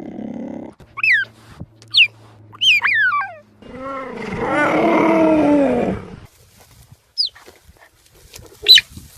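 Cheetah chirping: short, high, bird-like chirps that fall in pitch, about one a second. In the middle comes a longer, lower drawn-out call lasting a couple of seconds, which is the loudest sound.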